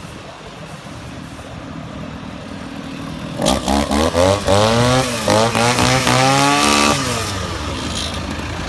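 Husqvarna 236R brush cutter's two-stroke petrol engine idling, then revved up and down several times in quick throttle blips from about three and a half seconds in. It drops back to idle about seven seconds in.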